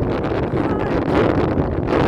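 Strong storm wind buffeting the microphone: loud, steady wind noise.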